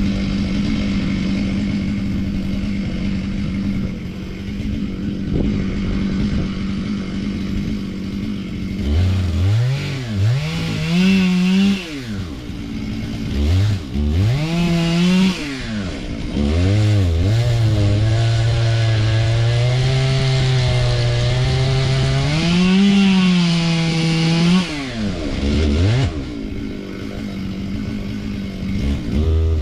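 Two-stroke chainsaw held at high revs, then from about nine seconds in dropping back toward idle and revving up again several times, with one long run at full throttle near the middle.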